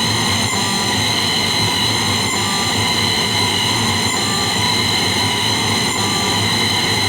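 Steady, noisy electronic drone from a homemade PT2399 delay noise circuit: several held tones over a rumbling hiss, with a faint blip repeating about every two seconds.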